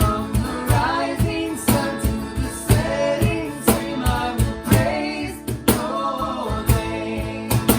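Live worship band music: a woman's voice singing a melody over guitar and a steady beat of drum hits.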